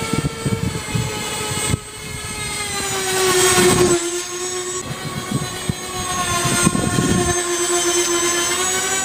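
Electric ducted fans of an RC A-10 Warthog model jet whining in flight. The pitch drops about three seconds in and rises again near the end, with gusts of wind rumble on the microphone.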